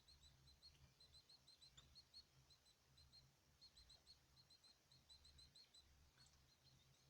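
Faint, rapid short chirps from small caged birds, several a second and all at about the same pitch, over a low rumble.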